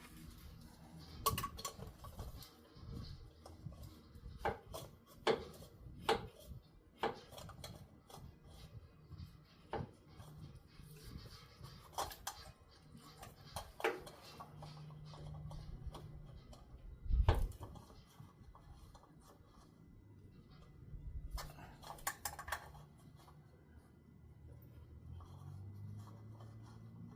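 Scattered light clicks and knocks of hands and tools working on a newly fitted oil filter, wiping it off and tightening it, with one dull thump about 17 seconds in.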